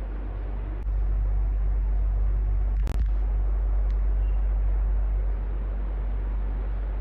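Electric fan running with a steady whoosh over a deep low hum, growing louder about a second in and easing back near the end. A single short click cuts through about three seconds in.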